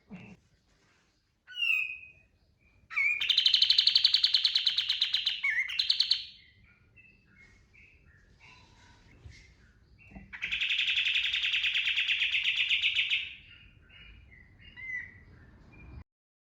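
Kapas tembak songbird singing its 'tembakan' bursts: two long, very rapid rattling trills of about three seconds each, with short chirps and notes between them.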